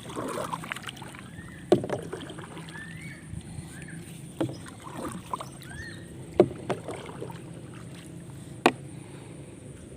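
Small homemade styrofoam-and-fiberglass boat being paddled on the water, with water sloshing and a sharp knock every two to three seconds.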